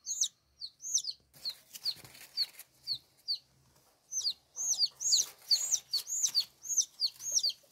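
A bird chirping over and over: short, high chirps that fall in pitch, several a second, with a short pause a little past the middle before they pick up again.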